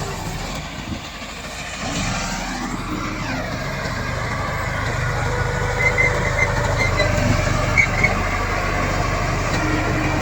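Komatsu D68 bulldozer running, its diesel engine working steadily. It dips briefly about a second in and picks up again near two seconds, with a few short high squeaks later on.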